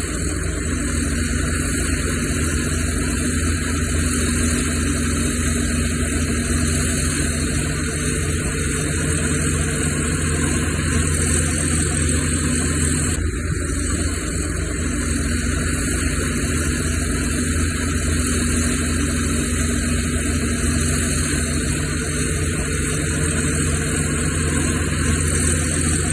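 Heavy diesel earthmoving machinery running steadily, with an abrupt change in the engine sound about halfway through.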